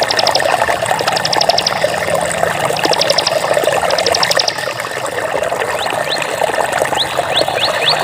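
Water trickling and flowing steadily. Short, high, rapid trills come four times in the first half, and quick rising chirps follow near the end.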